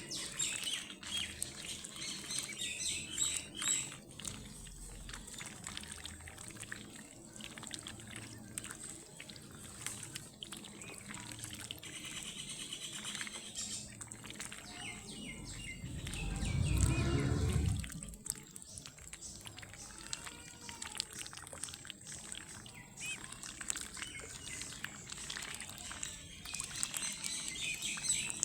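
Baby ducklings peeping, over water sounds of trickling and splashing. A louder low rush of about two seconds comes a little past the middle.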